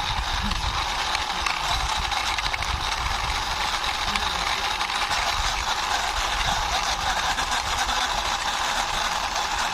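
Toy police car rolling steadily along a surface as it is pushed by hand: a continuous rolling and rattling noise from its small wheels.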